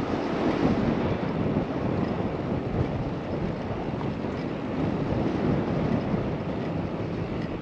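Wind rushing over the camera microphone, a steady noisy rumble.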